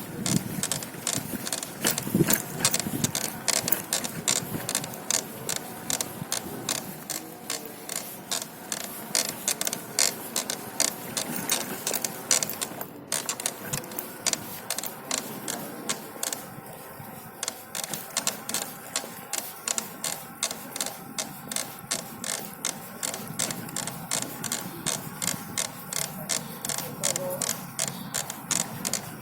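Bicycle drivetrain clicking while being pedalled: a steady, rapid, regular ticking, the unwanted noise that appears when pedalling.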